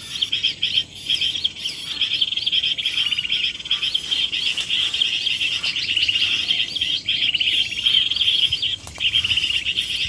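Birds chirping in a dense, continuous high-pitched chorus of rapid notes, with a brief break near the end.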